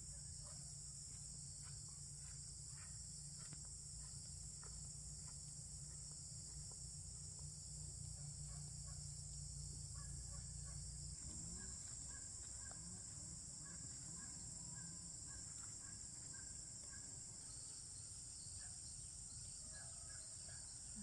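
Steady high-pitched chorus of insects, with faint short chirps in the second half.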